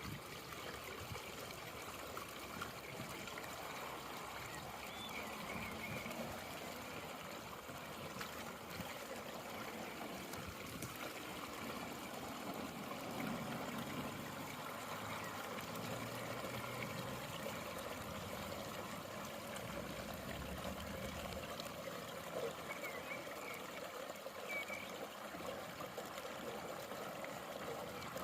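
Rainwater from a puddle draining steadily through a freshly unclogged storm drain, a continuous trickling flow.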